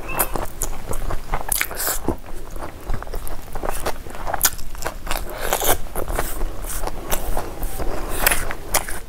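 Close-up chewing and crunching of crisp fried food and rice, with many irregular crackly bites.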